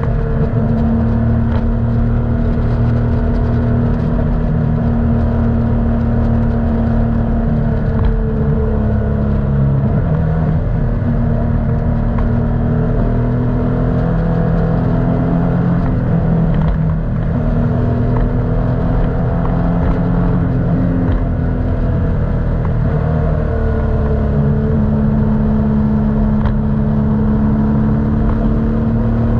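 Motorcycle engine running under way, its pitch shifting up and down several times with throttle and gear changes.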